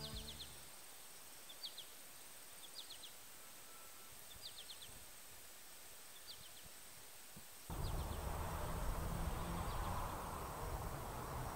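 A small songbird calling in short bursts of three or four quick high chirps, repeated every second or so over a quiet outdoor background. About eight seconds in, a louder, steady outdoor background noise cuts in abruptly, with the chirps still faintly heard.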